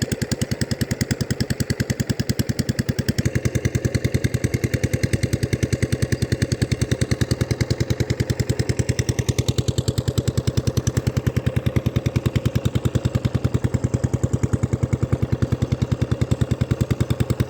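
Diesel engine running steadily while pumping water from a canal, with a fast, even beat of firing strokes.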